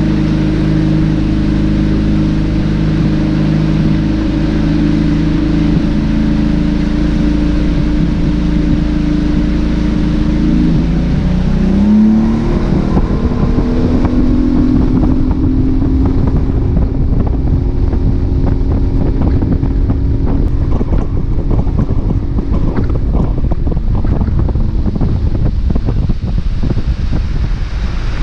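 Boat's outboard motor running steadily at low revs, then throttled up about eleven seconds in, its pitch rising. It then runs at speed, with wind noise and repeated knocks of the hull on the water.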